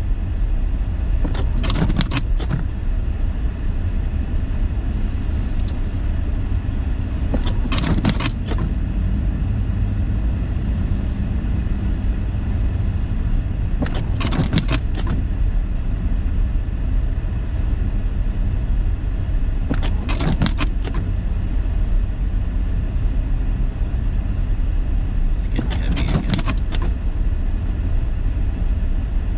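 Steady road and engine rumble heard inside a car's cabin while driving through snow. About every six seconds a brief sweep cuts through it, typical of windshield wipers on an intermittent setting.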